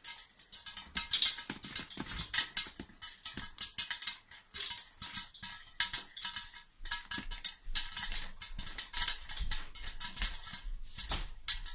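Popcorn kernels in hot oil in a pot on the stove, a dense run of sharp crackles and pops with no steady rhythm.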